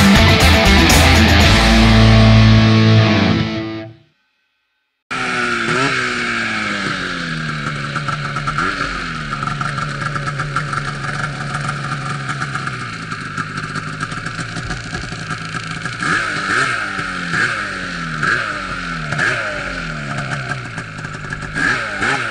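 Guitar music fading out over the first few seconds, then about a second of silence. After that, an Arctic Cat snowmobile engine runs, its pitch rising and falling repeatedly as it revs up and down.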